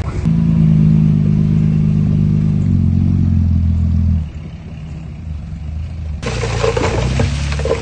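Heavy diesel earthmoving machine engine running hard, steady and loud, then dropping off about four seconds in. A sudden rough rattling and crackling starts about six seconds in.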